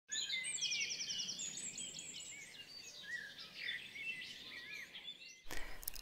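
Songbirds singing: several chirps and calls overlapping, with a fast trill near the start, growing fainter, then cut off suddenly about five and a half seconds in.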